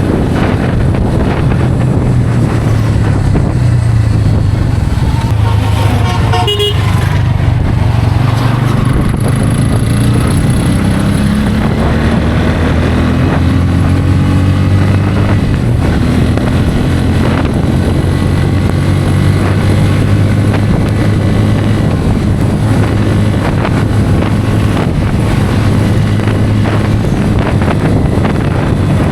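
Bajaj Pulsar N160's single-cylinder engine running steadily at highway speed, with a vehicle horn sounding briefly about six and a half seconds in.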